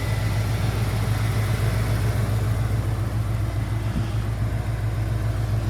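Ford 5.8 L (351 Windsor) V8 of a 1989 Bronco idling steadily at a stable, warm idle of about 700 RPM, with no hunting up and down.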